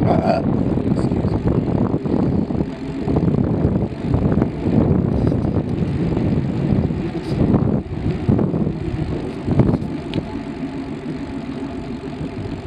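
Wind buffeting the camera microphone while riding a bicycle: a loud, uneven low rumble that surges and dips.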